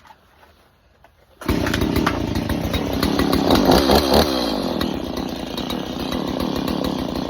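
Stihl MS 170 chainsaw's small two-stroke engine starting suddenly about a second and a half in, revving up and down briefly a couple of seconds later, then running steadily.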